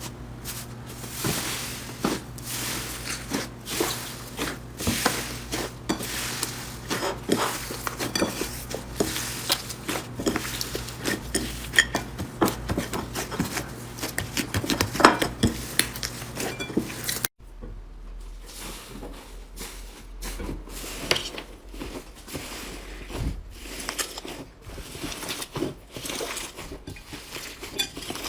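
Slime being squeezed and worked, a dense run of small wet clicks and crackles. It changes abruptly about two-thirds of the way through.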